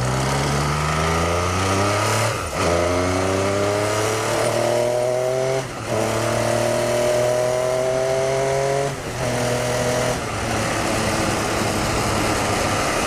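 MV Agusta 675 three-cylinder motorcycle engine accelerating through the gears: the pitch climbs in each gear, with brief breaks for three upshifts about 2.5, 6 and 9 seconds in, then it settles into a steadier run.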